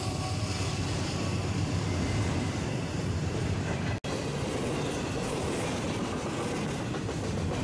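Intermodal double-stack freight cars rolling past close by: a steady rumble and clatter of steel wheels on the rail. It breaks off for an instant about four seconds in and picks up again as another stack train passing.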